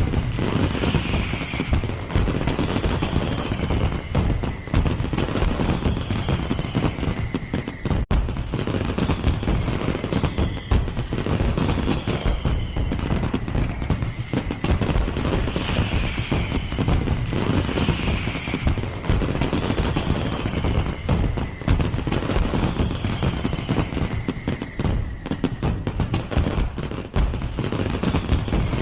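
A fireworks display with a dense, continuous barrage of rapid bangs and crackles. A falling whistle recurs every couple of seconds.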